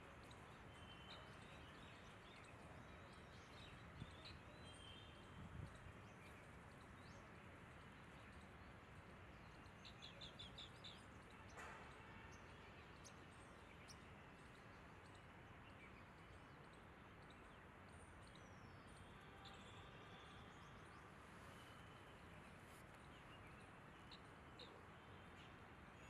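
Faint outdoor background hiss with scattered distant bird chirps, including a quick run of about six short high notes about ten seconds in.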